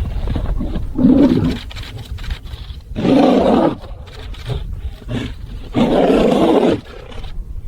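A large animal roaring three times, each a rough call of under a second, the last two the longest.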